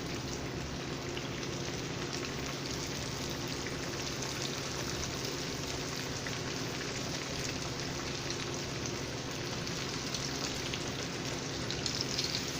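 Egg-and-seasoning-coated fish frying in hot oil in a pan: a steady sizzle with fine crackling, a little livelier near the end.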